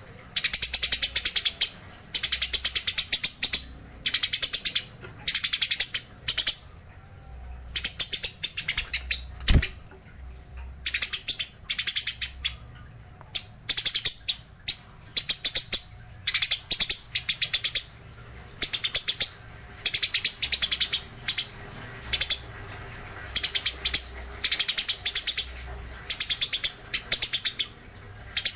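Eurasian tree sparrow chattering in its agitated 'fighting' call: bursts of very fast, rattling chirps, one after another with short pauses between them.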